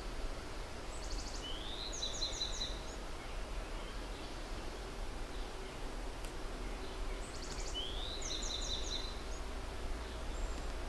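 A songbird singing the same short phrase twice, about six seconds apart: a quick trill, a rising slur, then a few quick repeated notes. A steady low outdoor rumble runs underneath.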